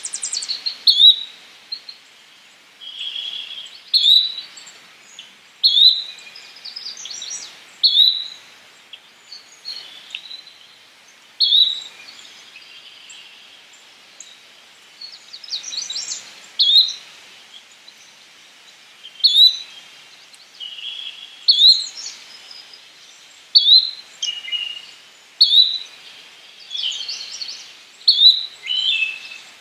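Yellow-bellied flycatcher giving a short upslurred call over and over, about every two seconds, with fainter chattering from other birds between the calls.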